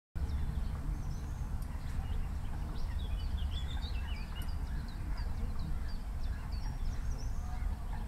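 Birds chirping and twittering in many short, high calls, thickest around the middle, over a steady low rumble.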